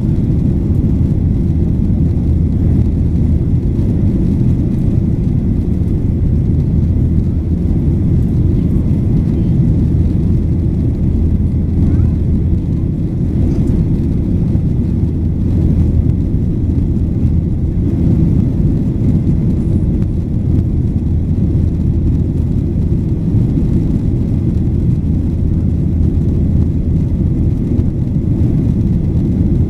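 Steady low rumble of a Boeing 737-800's CFM56-7B engines and airflow, heard from inside the passenger cabin.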